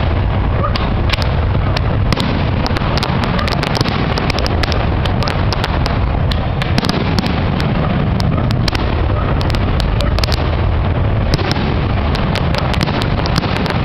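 Fireworks display: many sharp cracks and pops of bursting shells in quick succession over a continuous low rumble.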